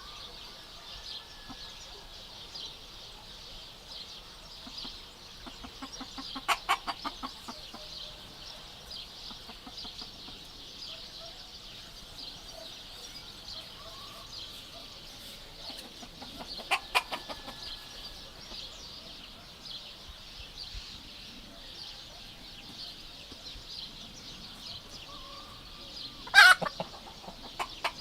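Chickens clucking in three short bouts of rapid clucks, the loudest a sharp call near the end, over a steady high-pitched background.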